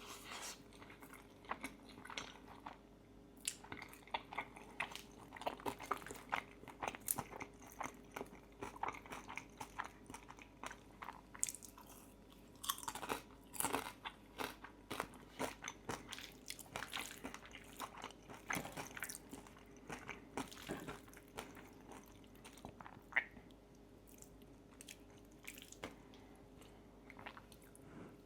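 Close-miked eating: chewing pesto fettuccine and biting into crispy bacon, with many irregular sharp crunches between softer wet chewing. The crunching thins out over the last few seconds, and a faint steady hum runs underneath.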